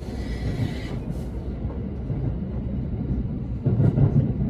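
Train running: a steady low rumble with a hiss in the first second and a louder swell of rumble near the end.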